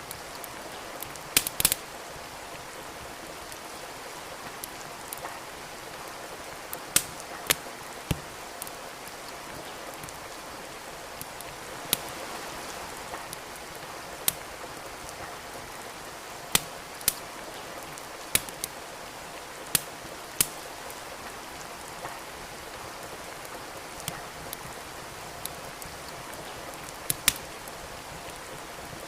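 Steady rain hiss with a wood fire crackling in a fireplace: sharp, irregular pops and snaps every second or two over the rain.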